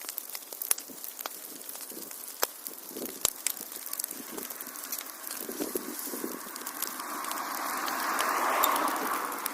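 Wood fire in a fireplace crackling, with many sharp pops over a steady hiss. Near the end a hissing rush from the flames swells and grows louder, then eases.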